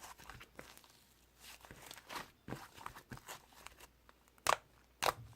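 Slime being squished and stretched by hand: irregular sticky crackles and squelches, with two louder pops about half a second apart near the end.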